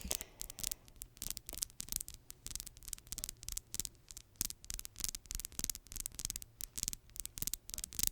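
Manicured fingernails tapping and scratching in quick, crisp, irregular clicks, several a second, over a faint low hum.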